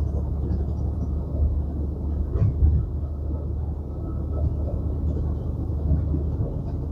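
Semi-truck's diesel engine droning steadily under load while climbing a mountain grade, mixed with road noise. A brief knock sounds about two and a half seconds in.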